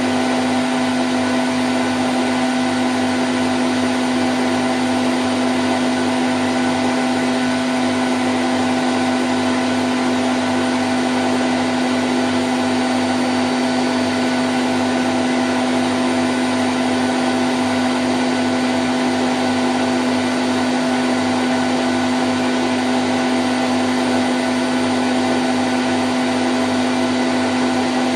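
Candy Grand O' F106 washing machine on its spin cycle at 1000 rpm: a steady, unchanging whirring hum with a strong, constant low tone.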